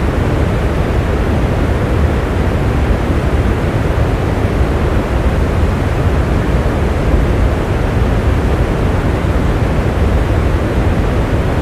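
Steady rain falling: an even, unbroken rushing noise, strongest in the low end and dull at the top.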